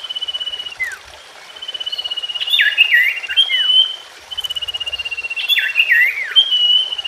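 Common iora (sirtu/cipoh) song. The same phrase repeats about every three seconds: a fast, even trill, then a few sweeping notes that slide down and up. It is used as a lure song to set a quiet iora singing again.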